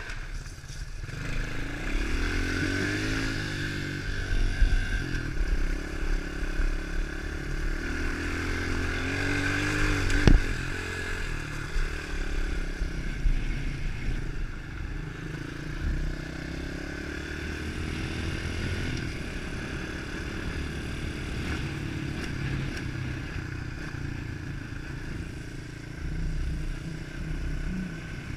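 A 110cc single-cylinder four-stroke pit bike engine under way, its pitch rising and falling as it accelerates and shifts, with wind noise and clatter from the bike. There is one sharp knock about ten seconds in.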